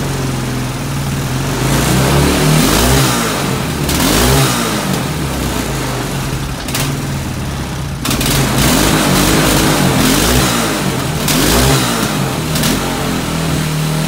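Four-wheeler (ATV) engine being revved up and let back down about five times, its pitch rising and falling with each blip of the throttle.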